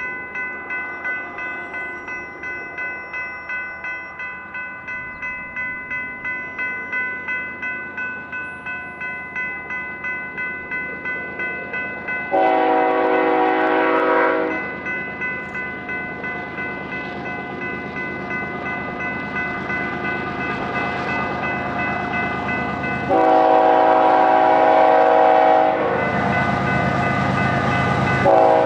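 A grade crossing bell rings about two to three times a second while an approaching freight locomotive sounds its horn: two long blasts about ten seconds apart, then a short one near the end. The rumble of the train grows toward the end.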